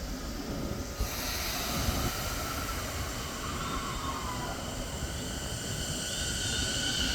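Keio 10-300 series electric train drawing nearer, its wheel and rail noise building, with a hiss coming in about a second in and high steady squealing tones from the wheels. Gusty wind rumbles on the microphone underneath.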